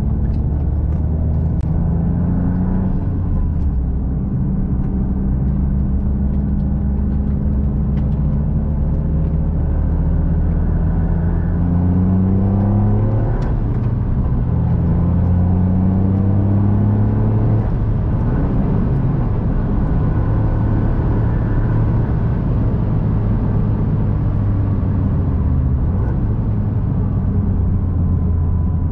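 Toyota GR Yaris's turbocharged 1.6-litre three-cylinder engine running hard on track, its note climbing and dropping back several times as it revs up and changes gear.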